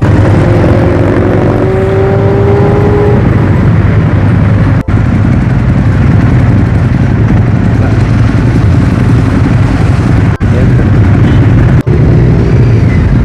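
Superbike engines running loud and steady, with a slightly rising engine note in the first few seconds.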